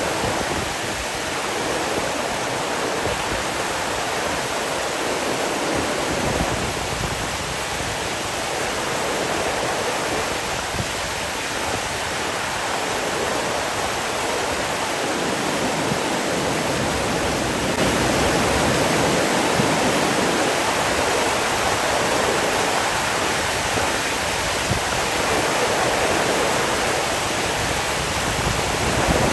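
Rushing water, steady and continuous like a waterfall or fast stream, growing a little louder about two-thirds of the way through.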